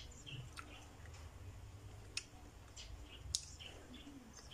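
A person chewing food close to the microphone: faint wet mouth noises with scattered clicks and smacks, the sharpest click a little past three seconds in.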